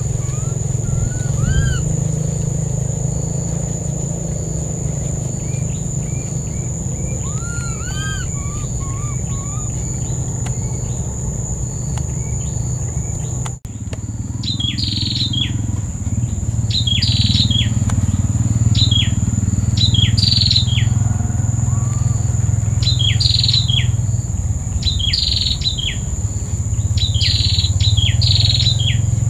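Birds calling: scattered rising-and-falling whistles at first, then, after an abrupt cut about halfway, a run of quick downward-sweeping chirps repeating about once a second, some in pairs. A steady high-pitched whine and a low rumble run underneath throughout.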